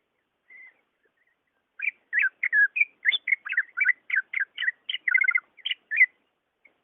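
Greater green leafbird (cucak ijo) singing. A faint single note is followed a little over a second later by a fast burst of short, sweeping whistled notes, about four a second, lasting about four seconds.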